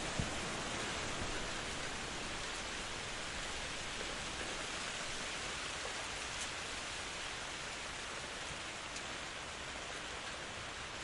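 Steady rain falling in a forest: an even hiss of rain with occasional single drops ticking close by.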